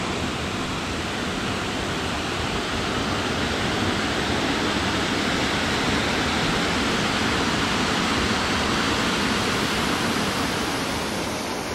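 Water from a small mountain stream or cascade rushing close to the microphone, a steady, loud, even hiss.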